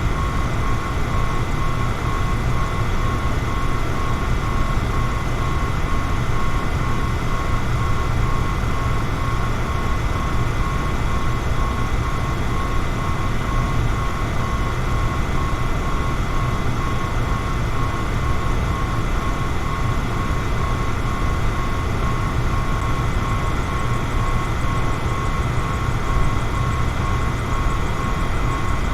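Electric fan running steadily: an even rush of air with a low hum and a faint, steady high whine over it.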